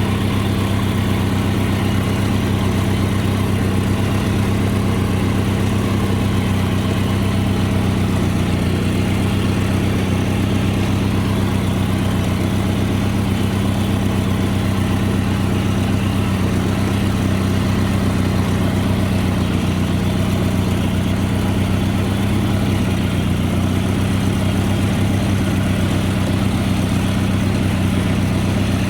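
Garden tractor engine running steadily under way, holding an even pitch as the tractor drives slowly along.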